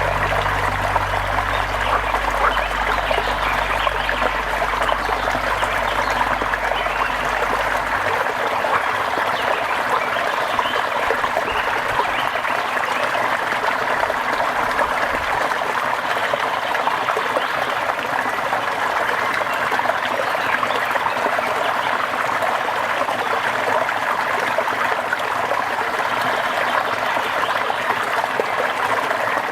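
Steady rainfall, a dense even patter of drops. A low steady hum underlies it for the first eight seconds or so, then stops.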